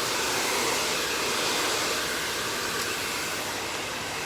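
Regular handheld blow dryer running steadily, a continuous rush of air as it dries hair.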